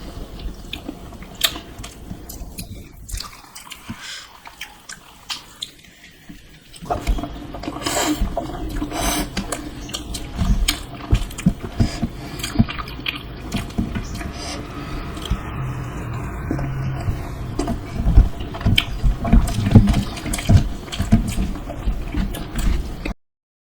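Close-miked eating sounds of a person chewing dosa: a dense run of mouth clicks and crackles, dipping quieter for a few seconds early on and cutting off abruptly just before the end.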